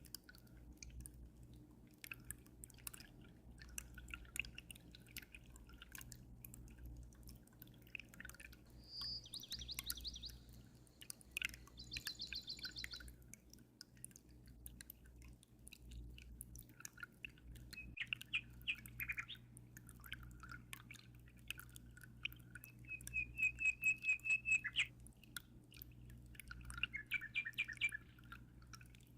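Small birds chirping and trilling in short bursts, the loudest a rapid trill about three quarters of the way through, over a constant patter of aquarium water dripping and trickling and a low steady hum.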